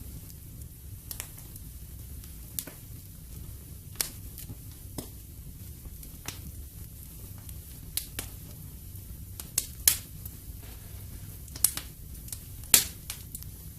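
Wood fire crackling in a fireplace: irregular sharp pops and snaps from the burning logs over a low steady rumble, with the loudest pops about ten seconds in and again near the end.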